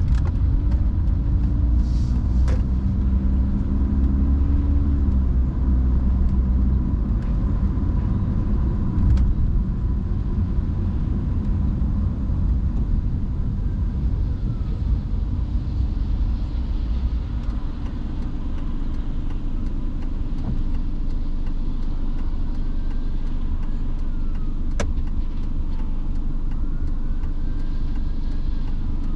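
Car driving on rain-wet roads, a steady low rumble of engine and tyres.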